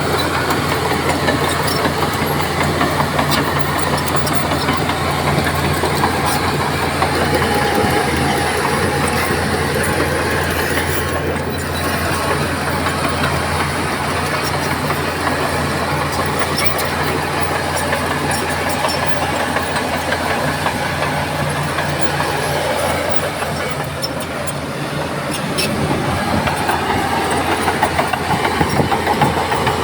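Heavy diesel earthmoving machinery running steadily at work, a low engine drone with rattling and clatter; the sound eases off slightly about three quarters in, then picks up again.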